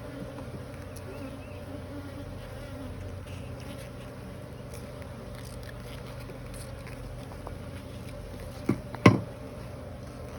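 A honeybee colony buzzing steadily around an opened hive, the bees described as cranky. Two short, sharp knocks come near the end.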